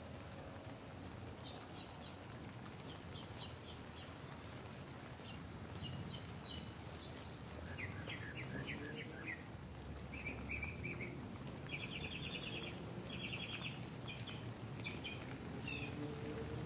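Rain pattering steadily on a nylon tent, heard from inside, with birds calling outside: series of short chirps and rapid trills that come thicker in the second half.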